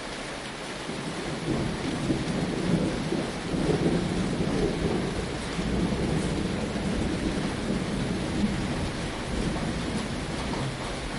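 Steady rain drumming on a tin roof, with a long rumble of thunder that swells about a second in and slowly fades toward the end.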